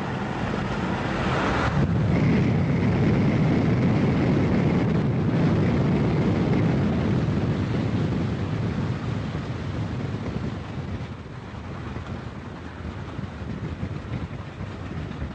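Steady rumble of vehicles on the move, with wind buffeting the microphone. It swells about two seconds in and eases off after about ten seconds.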